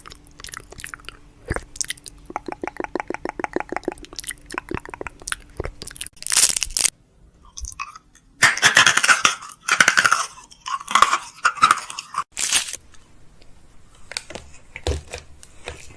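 Snack packaging being handled during restocking: small clicks and taps with a quick rattle near the start, then loud crinkling and rustling of plastic wrappers about six seconds in and again from about eight to thirteen seconds.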